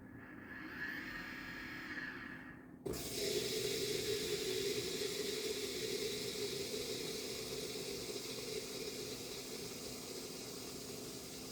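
LG dishwasher running: a swelling rush of water at first, then about three seconds in a sudden, louder steady rush of water as the wash cycle starts, easing off only slightly.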